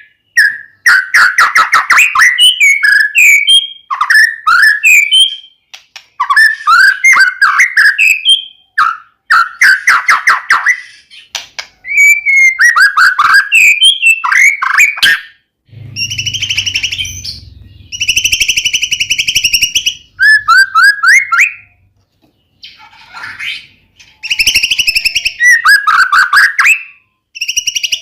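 White-rumped shama in full, energetic song: loud, rapid, varied whistled phrases in bursts with short pauses between. Harsh buzzy, rattling phrases come in around the middle and again near the end.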